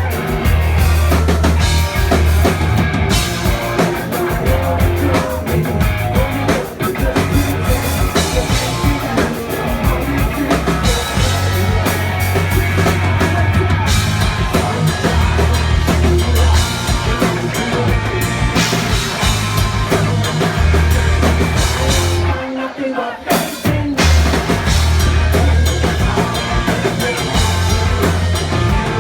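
Live rock band playing loudly, with drum kit and bass driving a steady beat under the guitars. About three quarters of the way through the music drops out for a moment, then kicks back in.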